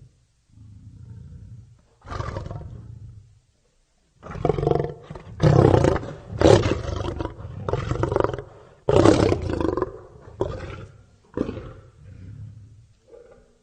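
Lion roaring: a low call, a short pause, then a run of loud roars that gives way to shorter, fading grunts near the end.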